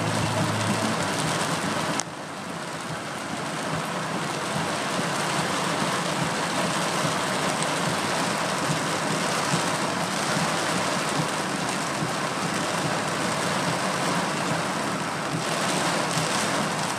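Heavy tropical-storm rain pouring steadily on a car. The level drops suddenly about two seconds in, then the rain noise builds back up and holds steady.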